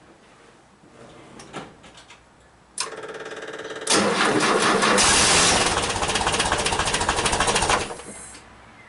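Air-cooled 2-litre twin-carb flat-four of a 1977 VW T2 camperbus started from cold after two weeks unused. The starter cranks briefly, the engine catches and runs loudly for about four seconds, then drops to a quieter idle near the end.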